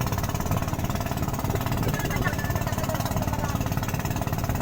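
A small engine running steadily with a rapid, even chugging pulse.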